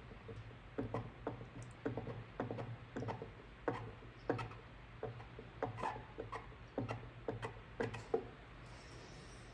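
Light, irregular ticks and scrapes of a hot plastic welding iron worked over a cracked plastic ATV fender, pre-melting and smoothing the plastic over the crack. They come about two or three a second over a low steady hum and die away near the end.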